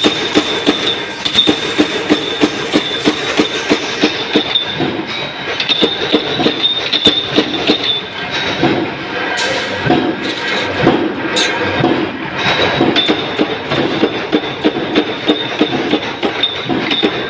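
Mechanical punch press stamping wing-shaped washers from 2.3 mm thick stock: a regular, rapid clatter of press strokes, about three a second, over a steady high whine.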